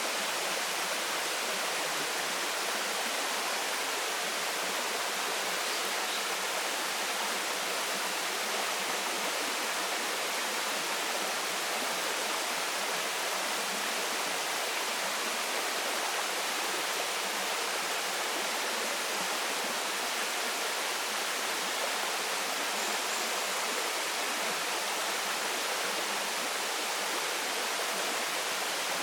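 Waterfall falling steadily: an even, unbroken rush of water with most of its sound in the upper range.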